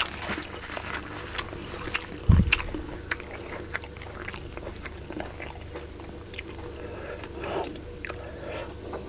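Close-miked chewing and biting of food, with wet mouth smacks and small clicks throughout and a low thump about two seconds in.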